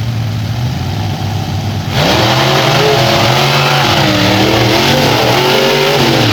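Monster truck engines running low and steady, then about two seconds in opening up at full throttle all at once, the engine pitch rising and falling as they rev hard.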